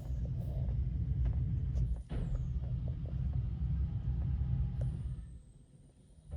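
Mark VII AquaJet XT touch-free car wash spraying the car, heard from inside the cabin as a low drumming rumble. It starts suddenly, breaks off briefly about two seconds in, and fades away about five seconds in as the spray passes.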